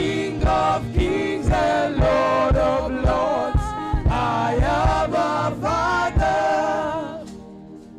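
Gospel choir singing with a steady drum beat, fading down near the end.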